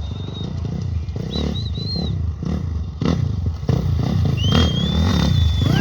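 Off-road race motorcycle engines running and revving as bikes go by, with a high wavering whistle about a second in and a longer held whistle near the end.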